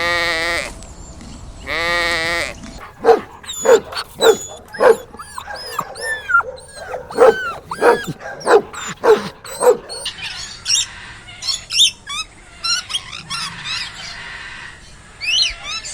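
Two long, quavering bleats from livestock, then a dog barking repeatedly, about one bark every half second for some seven seconds, then high birds' chirping to the end.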